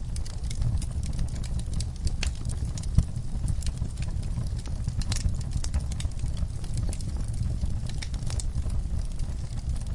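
Wood fire burning in a fireplace, crackling with irregular sharp pops over a steady low rumble of the flames, one pop about three seconds in louder than the rest.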